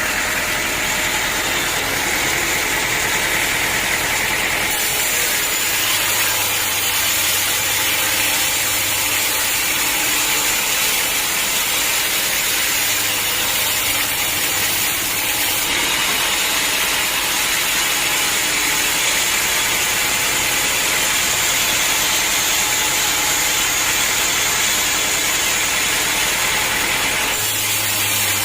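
Sawmill machinery running steadily, an engine-driven log saw, with abrupt shifts in its tone about 5, 16 and 27 seconds in.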